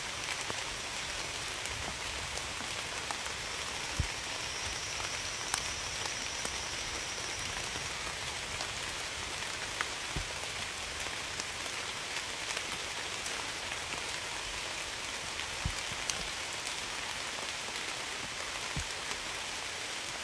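Steady rain falling, an even hiss with a few louder drops ticking sharply now and then.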